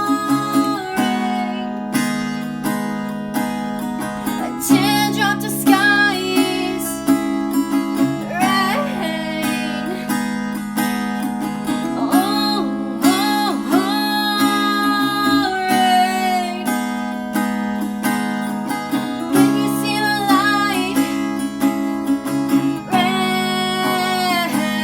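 Acoustic guitar being strummed in steady chords, with a voice singing a wavering melody over it.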